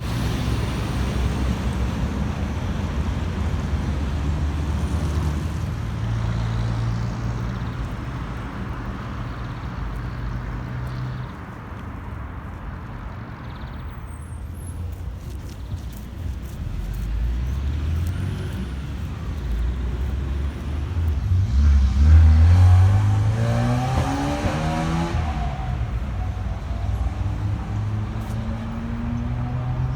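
Road traffic with a heavy vehicle's engine running. The engine's pitch climbs from about 17 to 25 s in as it pulls away and speeds up, and it is loudest near the middle of that climb.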